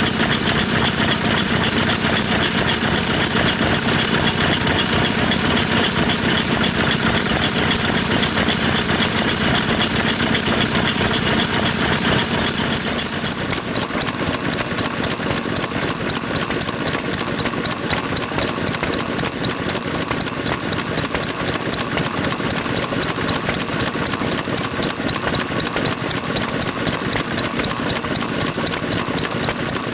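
Vintage stationary farm engines running with a fast, steady chugging beat. About twelve seconds in the engine sound changes and gets slightly quieter.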